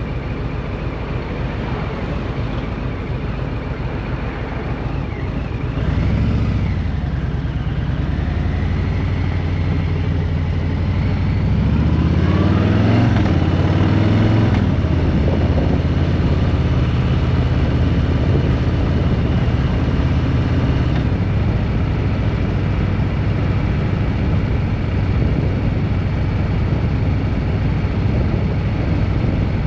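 A road vehicle's engine running under way with steady road noise. It gets louder about six seconds in, the revs climb and drop a few times around the middle, then the engine holds a steady pitch while cruising.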